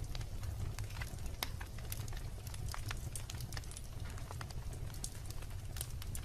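Wood fire of burning logs crackling: frequent sharp pops and snaps, several a second, over a steady low rumble of the flames.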